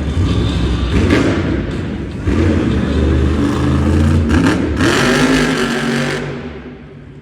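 Grave Digger monster truck's supercharged engine revving hard through a freestyle run, its pitch rising and falling, then falling off sharply near the end.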